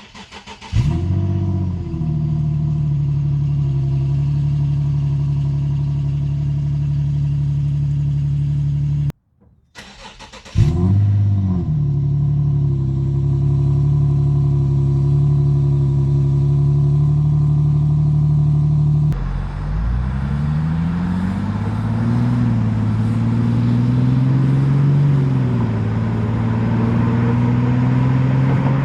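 Infiniti G37's 3.7-litre V6 exhaust cold-started twice, before and after fitting Fast Intentions resonated high-flow cats: each time it cranks, catches with a flare, and settles to a steady fast idle. After about 19 seconds a different passage begins, with the engine note rising and falling and then climbing slowly.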